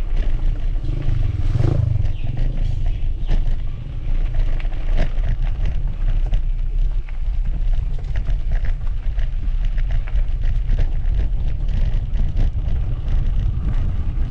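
Mountain bike being ridden over rough trail: heavy wind rumble on the action camera's microphone, with frequent clicks and rattles from the bike jolting over the ground.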